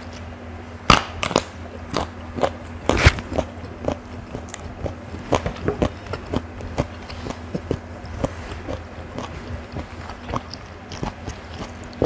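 Close-miked biting and crunchy chewing of raw round green eggplant, with a few loud crunches in the first three seconds and then many smaller chewing clicks. A faint steady low hum sits underneath.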